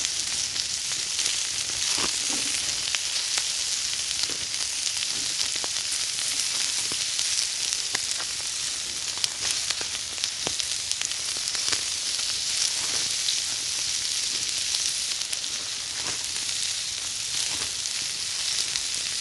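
Pork sizzling on hot river gravel: a steady frying hiss with scattered small crackles and pops as the meat cooks.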